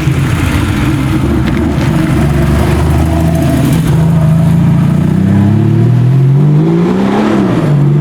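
Car engine running steadily, then revving up, its pitch rising for about two seconds before dropping sharply near the end, as at a gear change.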